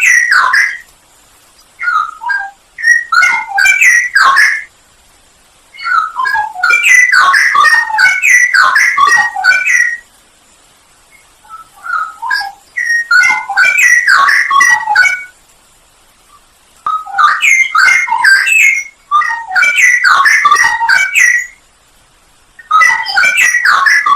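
Straw-headed bulbul (cucak rowo) singing: loud, rich bubbling phrases of rapid notes, each a few seconds long, separated by pauses of a second or two, about six phrases in all.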